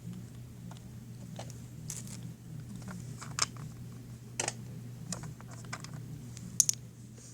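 Small plastic toy figures being handled and set down: scattered light clicks and taps, a few of them sharper, over a steady low hum.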